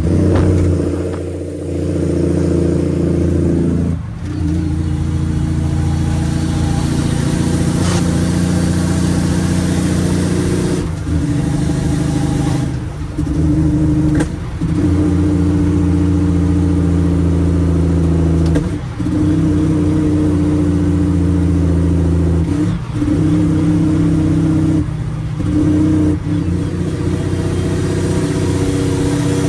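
Straight-piped Cummins ISX inline-six diesel in a truck, pulling through the gears of an 18-speed transmission. A loud, steady exhaust drone is broken by several short dips, one at each shift, after which the pitch settles at a new level.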